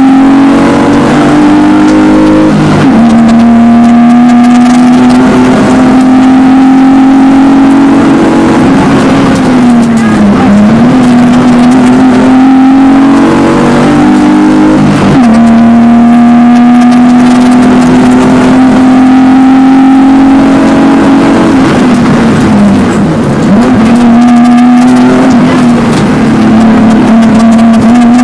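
BMW E36 rally car's engine heard from inside the cabin, running flat out at high revs with a steady pitch that dips briefly about four times and climbs straight back.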